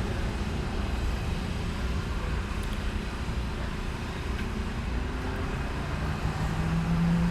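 Steady low rumble of vehicle or traffic noise, with a steady low hum joining it about six seconds in.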